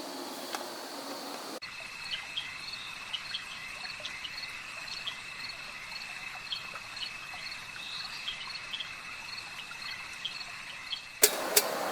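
Insects calling in the open: a steady high trill with short chirps repeating over it. The sound changes abruptly about a second and a half in, and a couple of sharp clicks come near the end.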